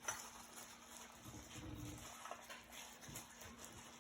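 Faint handling noises of raw chicken being breaded: a sharp click at the start, then soft knocks and a low rumble as the next cutlet is moved into the bowls.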